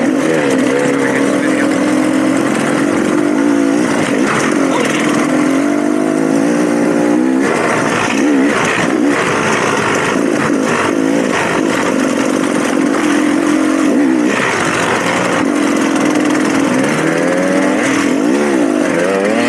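Dirt bike engine running while ridden, its revs rising and falling over and over. A run of short knocks and clatter comes through about the middle.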